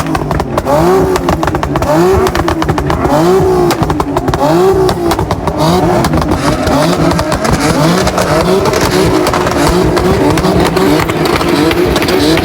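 Car engine revved over and over, its pitch rising and falling about once a second, then held in a quicker, more even wavering rev in the second half.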